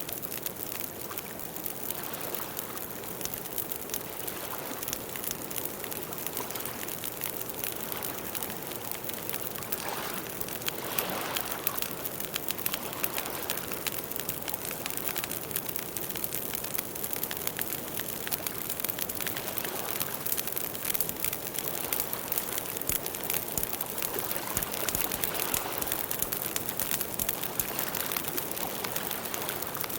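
Campfire burning, with a steady crackle of many small pops and snaps over a soft hiss, swelling a little about ten seconds in.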